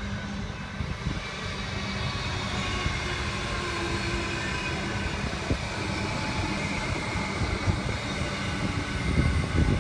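Melbourne Metro electric suburban train passing close by, its wheels rumbling and clattering on the rails. It grows a little louder near the end.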